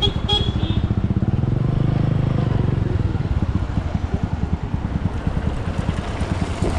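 A small engine running close by: a rapid, rough low pulsing with a steadier hum about two seconds in.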